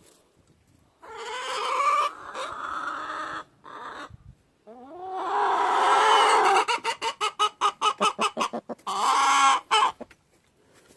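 Domestic hen cackling: drawn-out squawking calls, then a quick run of short clucks at about six a second, ending on another long call.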